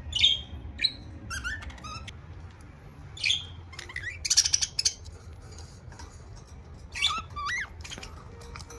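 Budgerigars chirping: scattered short, sharp chirps, a few gliding warbled notes, and a rapid buzzy chatter about four seconds in.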